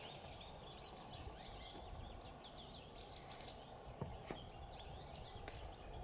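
Faint chorus of songbirds, many short high chirps and trills overlapping from several birds at once. A few sharp clicks stand out about four and five and a half seconds in.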